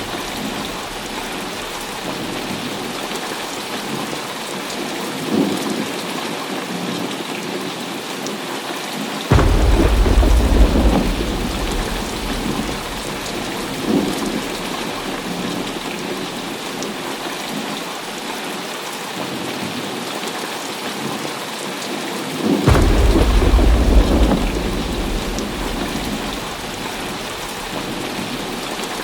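Heavy rain falling steadily in a thunderstorm. Two loud claps of thunder, one sudden about nine seconds in and one about twenty-three seconds in, each rumble on for a few seconds, with fainter rumbles in between.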